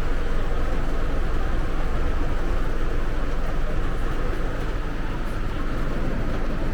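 Bus cabin noise while riding: a steady low engine rumble with road noise.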